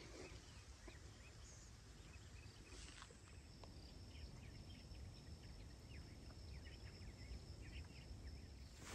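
Near silence of open country: faint distant bird chirps over a low rumble of wind.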